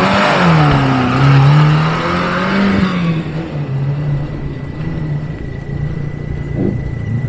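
Off-road 4x4 engine revving hard, its pitch rising and falling several times. About three seconds in it drops to a steadier, quieter engine drone, and a thin steady high whistle joins soon after.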